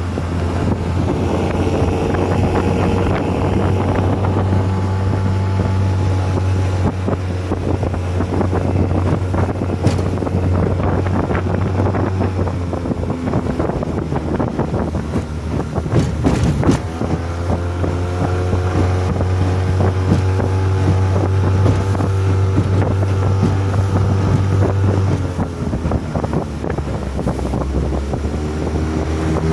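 Honda 20 hp four-stroke outboard motor on a 14-foot aluminum boat running steadily under way, with wind buffeting the microphone. There is a brief louder burst about halfway through, and the engine note dips and shifts about three quarters of the way in.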